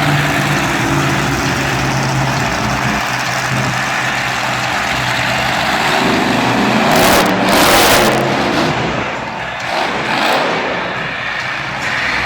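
Monster truck's supercharged V8 engine revving and running hard, its pitch shifting up and down, with a louder rush of noise about seven seconds in.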